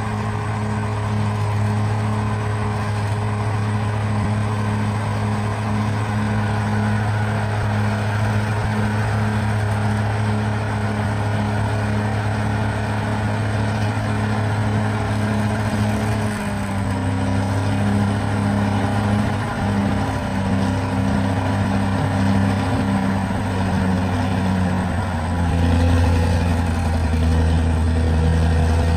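Bulldozer's diesel engine running steadily; its note shifts about sixteen seconds in, and a deeper, louder note comes in near the end.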